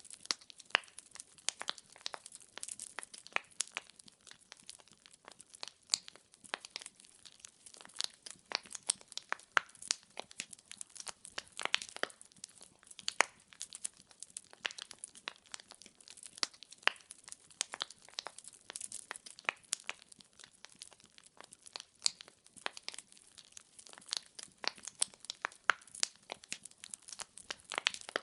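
Burning firewood crackling: dense, irregular pops and snaps.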